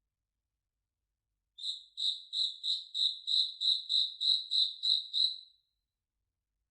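High-pitched chirping call, a string of about a dozen short notes at roughly three a second. It starts about one and a half seconds in and stops about a second before the end, with dead silence on either side, as in a looped nature sound effect.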